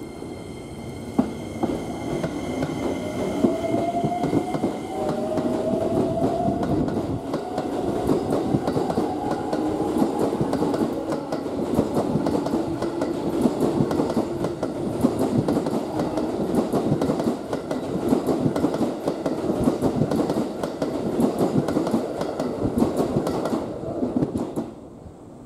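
A 12-car Keikyu electric train, including a second-generation Keikyu 1000 series set, pulls out and accelerates past. Its inverter motor whine rises in pitch over the first several seconds under the rattle of wheels clacking over rail joints. The sound drops away suddenly shortly before the end.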